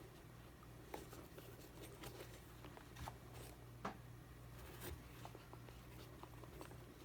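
Faint, scattered small clicks and ticks of fine handwork on the small parts and wire of a shoe's lacing dial, over a low steady hum.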